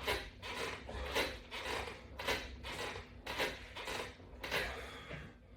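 A person breathing hard in a steady rhythm, about two breaths a second, from the exertion of an abdominal exercise set.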